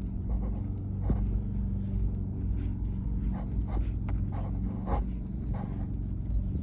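A dog makes several short, separate vocal sounds over a steady low engine hum.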